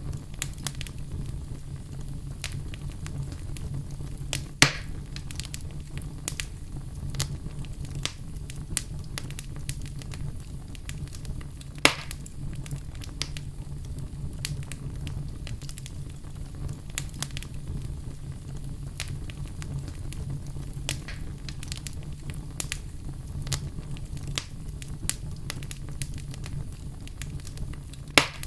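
Fire burning in a fireplace: a steady low rumble of flames with constant small crackles and three louder pops.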